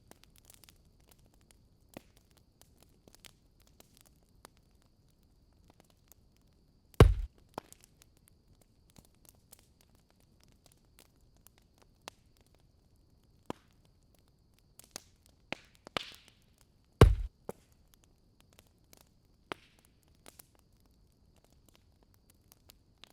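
Wood fire crackling with scattered small pops and clicks, and two heavier knocks about ten seconds apart.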